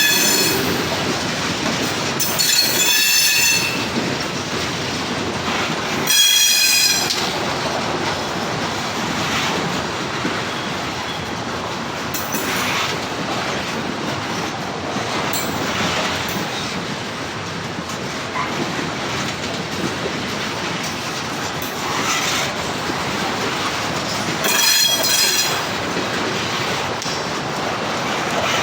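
CSX train's cars rolling past with a steady rumble of wheels on rails, broken by short high-pitched wheel squeals about three seconds in, again about six seconds in, and near the end.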